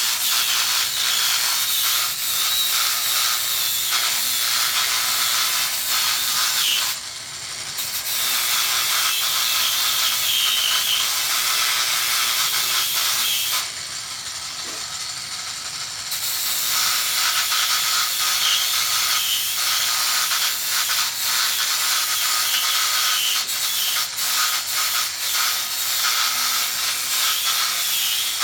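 PROXXON mini die grinder with its sanding wheel grinding paint off metal: a continuous high-pitched rasping whine. The grinding drops off briefly twice, once about a quarter of the way in and again for a couple of seconds around the middle.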